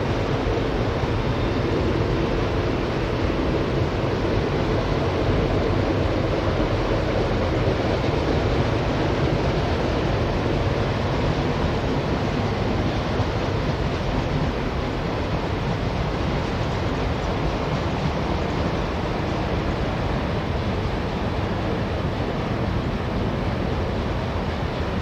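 Train rolling by on the tracks, a steady rumble of wheels on rail that swells slightly and then holds.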